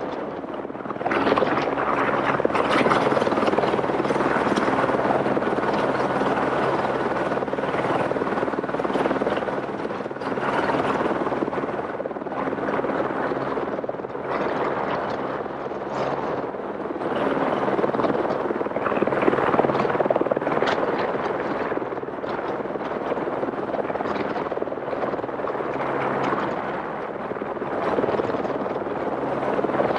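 Helicopter in flight: a steady rotor and engine drone under a broad rushing noise that swells and fades every few seconds.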